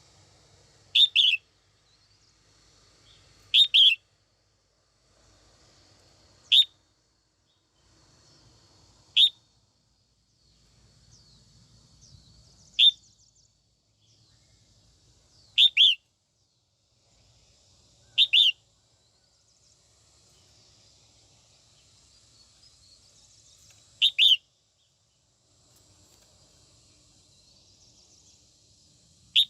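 Female red-whiskered bulbul giving short, sharp, falling calls, some single and some doubled, about every two to three seconds: a female's call used to stir up males.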